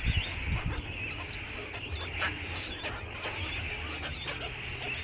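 A flock of birds calling together: many short, overlapping chirps and chattering notes, over a low background rumble, with a few low thumps in the first second.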